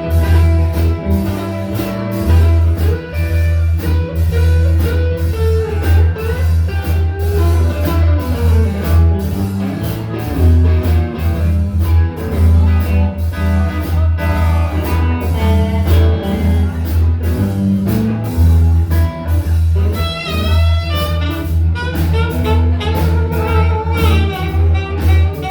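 Live blues band playing an instrumental passage: bass and drums keeping a steady beat under a guitar solo, with quick bent runs near the end.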